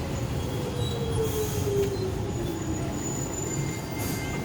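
Docklands Light Railway train heard from inside the carriage as it slows for a station: a steady low rumble under a motor whine that falls in pitch over about three seconds, with thin high wheel squeals.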